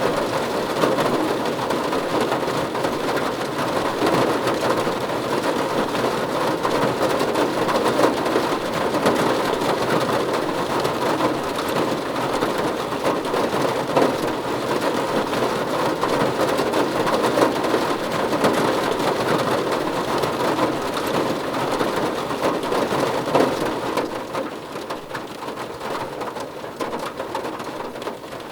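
Rain falling on a car roof, a dense, steady patter of drops that eases slightly near the end.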